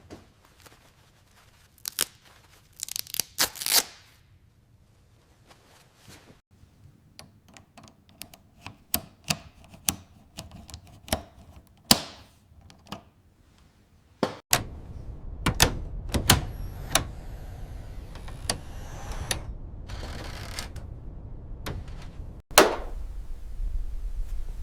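Hand-tool work on metal: sharp clicks and taps, a quick run of them in the first half. About halfway through a steady low rumble starts under more knocks, with one loud hit near the end.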